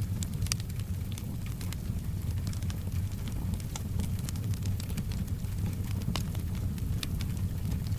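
Wood fire crackling, with sharp pops scattered irregularly over a steady low rumble, and soft rain in the background.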